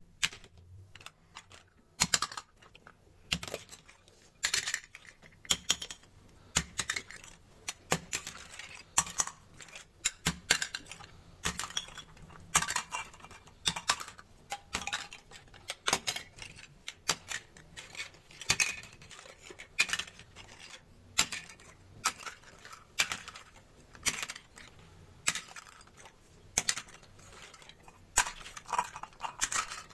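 Plastic toy fruit and vegetables being cut apart with a toy knife and handled: irregular sharp plastic clicks and clacks, about one or two a second, with short scrapes between them.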